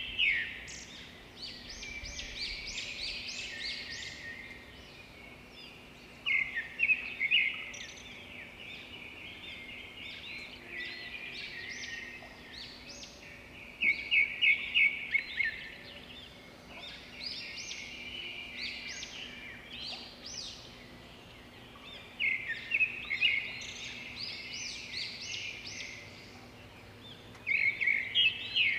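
Birdsong: a bird repeats a loud run of rapid, sharp chirps every six to eight seconds, with quieter twittering calls in between, over a faint steady background hiss.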